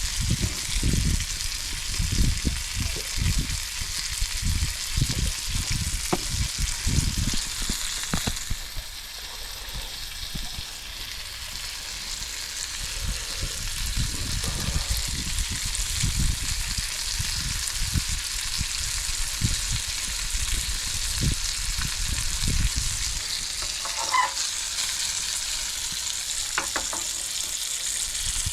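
Food frying in a pan: a steady sizzle, easing briefly about nine seconds in, with irregular low thumps underneath.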